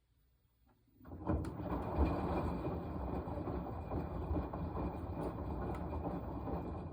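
Washing machine running: a loud, dense rumbling noise with scattered clicks starts about a second in, holds steady, then drops away near the end.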